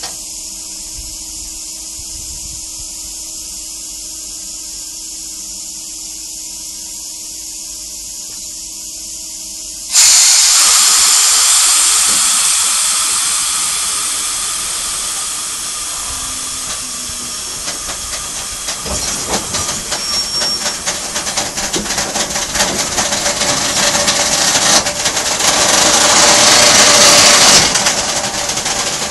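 Freight train of open wagons standing with a steady low hiss and hum. About ten seconds in comes a sudden loud hiss of compressed air from the air brakes releasing, which fades over several seconds. The wagons then start to roll with rapid clicks and creaks from the wheels, growing louder toward the end.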